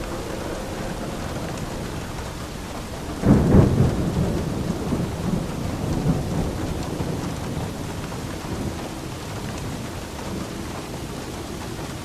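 Steady rain with a clap of thunder a little over three seconds in, rumbling and fading over the next few seconds.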